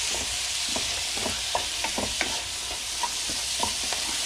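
Food frying in a pot with a steady sizzle, stirred with a utensil that makes irregular light clicks and scrapes against the pot as turmeric is mixed through.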